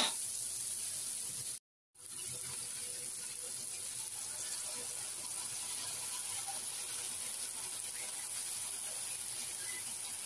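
Diced vegetables frying in a wok: a steady sizzle. The sound drops out to silence for a moment near two seconds in.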